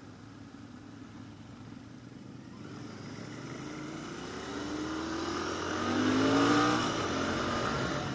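Royal Enfield GT 650's parallel-twin engine accelerating under way. The revs climb steadily to a peak about two-thirds of the way in, then drop off, as at a shift or closing the throttle, and it runs on more steadily.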